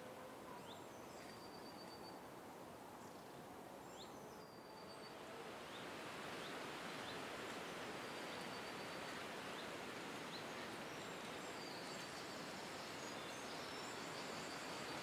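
Park birds calling: scattered short whistles and high chirps over a steady rushing noise that swells about five seconds in.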